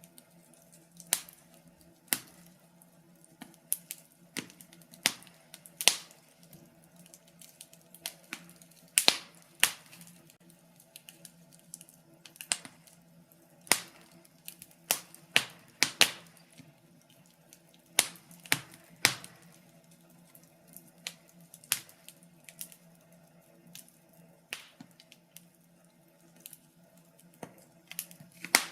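Wood fire crackling in a fireplace: irregular sharp pops and snaps from the burning logs, some louder than others, over a faint steady hum.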